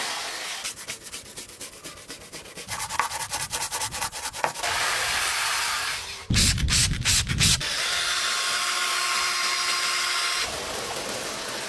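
Car-cleaning sounds in several short cuts: rapid scrubbing strokes on a surface, then a steady spraying hiss, broken about halfway by a brief loud low rumble.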